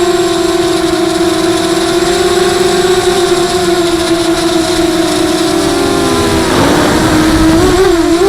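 Brushless motors and propellers of a 250-size FPV racing quadcopter, giving a steady high buzz. Near the end the pitch wavers and splits with a rush of noise as the motors change speed against one another.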